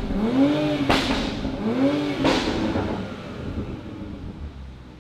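2020 Toyota Supra's B58 turbocharged inline-six free-revving in neutral: two quick blips that rise and fall in pitch, each ending in a sharp crack, then settling back to a quieter idle.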